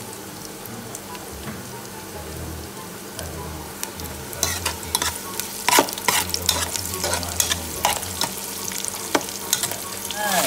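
Sliced onion, ginger and garlic sizzling in oil in a metal pot, being sautéed. About four seconds in, a metal spoon starts stirring, scraping and clinking against the pot.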